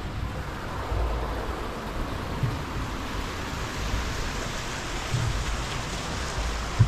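Steady rush of water as a deep river lock chamber empties to lower a boat, with a few low thumps, the sharpest near the end.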